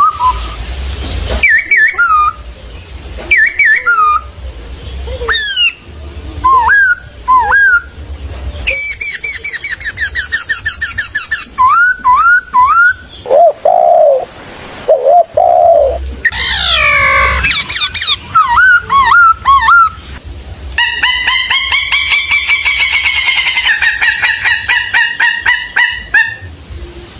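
Birds calling and singing, a string of different whistled notes, chirps and trills that change abruptly every few seconds, ending in a long run of rapid repeated calls.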